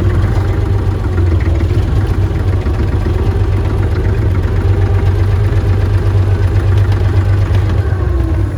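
Diesel engine of a roughly sixty-year-old tractor running steadily as the tractor moves, still warming up after a cold start.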